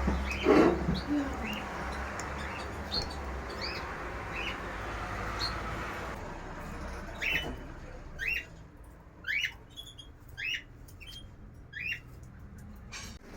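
Small birds chirping repeatedly in short high calls, with a brief louder sound about half a second in. In the second half the chirps come about once a second.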